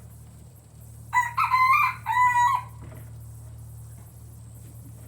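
A rooster crowing once, a single crow of about a second and a half that starts about a second in.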